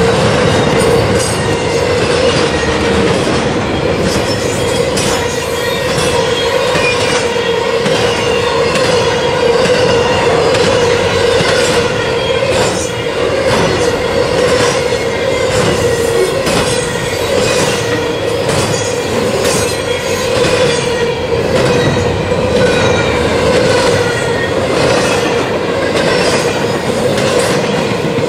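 Double-stack container train rolling past close by: steel wheels running on the rail with repeated clacks as the wheelsets cross rail joints, and high-pitched wheel squeals sliding up and down in pitch over a steady hum.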